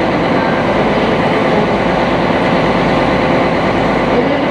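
Sightseeing cruise boat under way: its engine drone and the rush of water, steady and loud, heard from on board.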